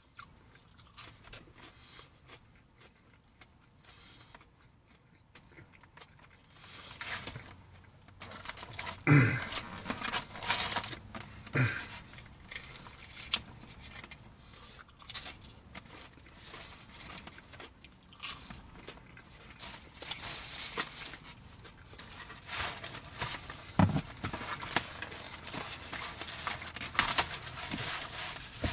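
Close-up chewing and crunching of breaded fried chicken strips, with wet mouth sounds in irregular bursts that grow busier and louder after the first several seconds.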